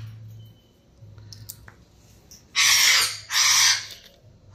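Parrot giving two harsh squawks back to back, each about half a second long, roughly halfway through.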